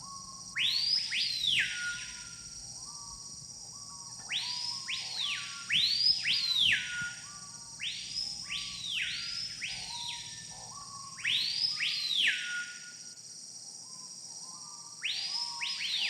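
Jungle birds giving loud whistled calls that rise sharply, hold, then slide down, in clusters of two or three every few seconds. Under them runs a steady high insect drone, with softer, lower calls between.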